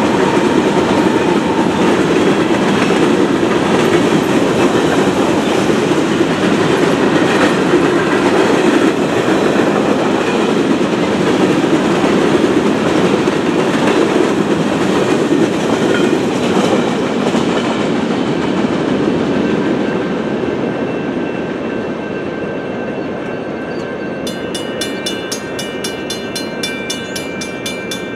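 A train's cars rolling past with steady wheel-on-rail clatter, fading after the middle. Near the end a grade-crossing bell is heard ringing in a fast, even rhythm as the rail noise drops.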